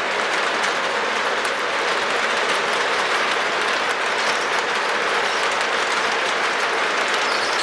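Model trains running steadily around a layout: an even rolling rush of metal wheels on three-rail track, with faint clicks as they pass over rail joints and switches.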